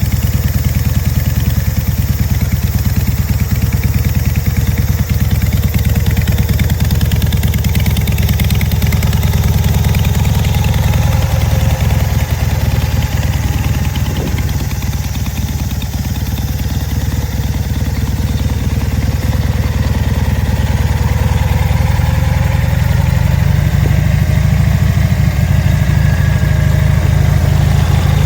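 An engine running steadily at idle, a continuous low rumble that stays even throughout.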